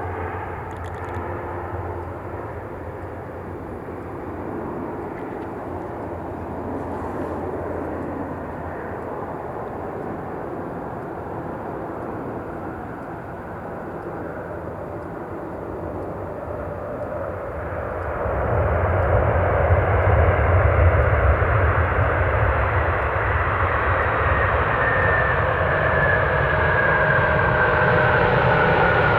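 Jet airliner engines running, the sound growing clearly louder a little past halfway through, with a high engine whine that slowly drops in pitch near the end as the aircraft passes.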